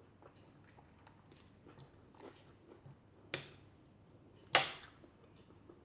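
A person chewing food close to the microphone with small wet mouth clicks, and two louder, sharp smacks about three and four and a half seconds in.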